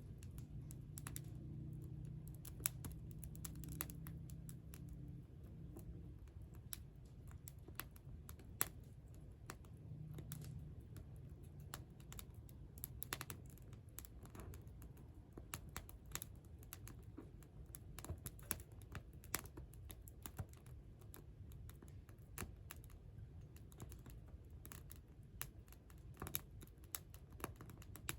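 Wood campfire crackling: irregular sharp pops and snaps, several a second at times, over a low steady rumble.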